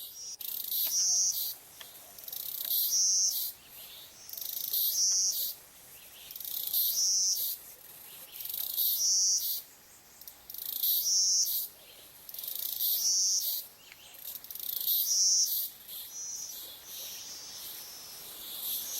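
An insect calling in a high-pitched, buzzing phrase that swells and cuts off, repeated regularly about every two seconds.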